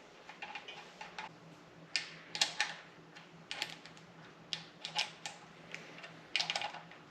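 Irregular light metallic clicks and clinks of an engine rocker assembly, bolts and hand tools being handled on a Subaru EJ25 cylinder head, some in quick little clusters, with the sharpest about two and a half seconds in and near the end.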